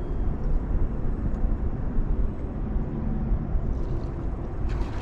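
Boat motor running with a steady low rumble.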